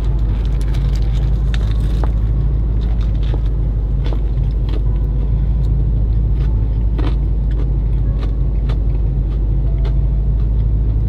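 Steady low hum of a car idling, heard inside the cabin. Scattered small clicks and crackles of chewing and a paper sandwich wrapper sit on top of it.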